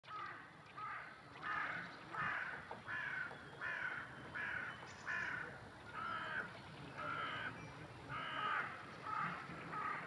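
A bird calling over and over, a short call repeated a little more than once a second in an unbroken series.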